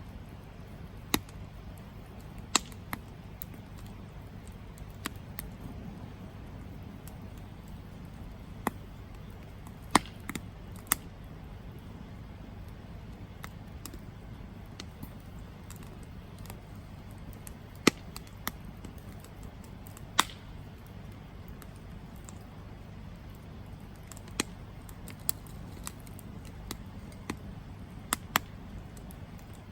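Wood campfire burning, with sharp crackles and pops at irregular intervals, sometimes two close together, over a steady low rumble.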